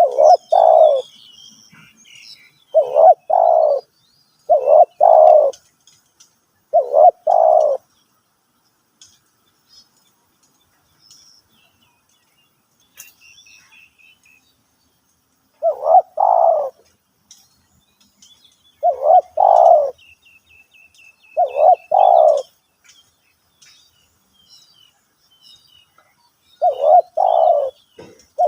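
Spotted dove cooing: short, loud two-part coo phrases repeated every two to three seconds, with a pause of about eight seconds in the middle. Small birds chirp and trill faintly in the background.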